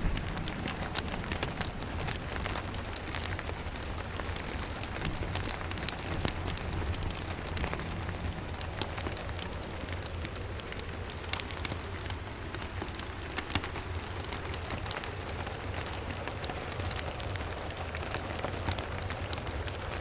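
Steady rain with many small sharp crackles from a wood fire, over a steady low rumble.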